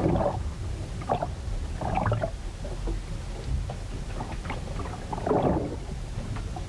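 Storm waves sloshing and splashing against a ship's hull in irregular surges over a constant low rumble.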